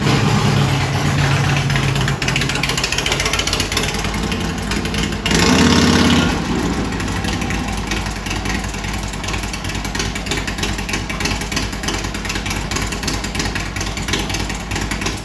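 Harley-Davidson Road King's V-twin running at idle through an Ultima Dominator 2-into-1 exhaust, with one short rise in revs about five seconds in.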